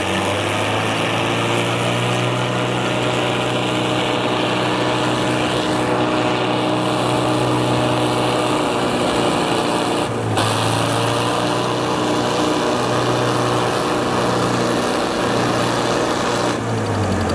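Swaraj 855 and Sonalika 60 tractor diesel engines running hard and steady, pulling against each other in a tractor tug-of-war, with a brief dip about ten seconds in.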